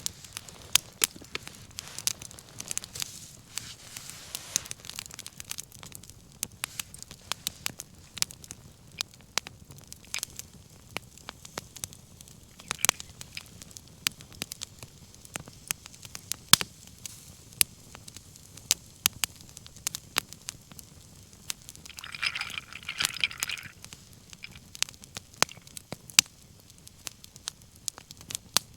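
Wood bonfire crackling, with irregular sharp pops and snaps throughout. A brief hiss rises and fades a little before the end.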